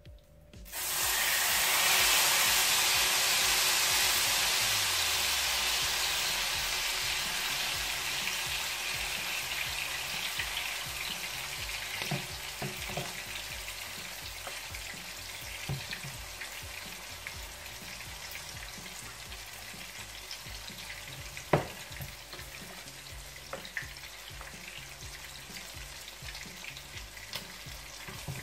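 Tortang talong mixture (eggplant with egg-and-minced-meat coating) dropped into hot oil in a frying pan: a loud sizzle starts suddenly about a second in and slowly dies down as it fries. Now and then a slotted turner clicks and scrapes against the bowl and pan, the sharpest knock about two-thirds of the way through.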